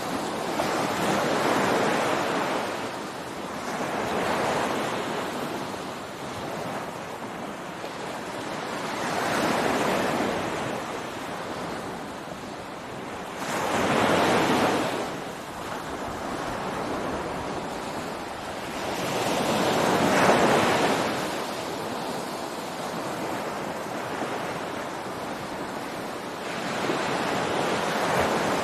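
Ocean surf breaking and washing up on a beach: one wave after another, each a swelling rush of noise that fades over a few seconds, arriving about every four to six seconds.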